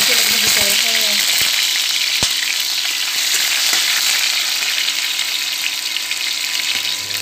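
Cubed potatoes frying in hot oil in a metal kadai: a loud, steady sizzle. A spatula knocks against the pan a few times in the first couple of seconds as the potatoes are stirred.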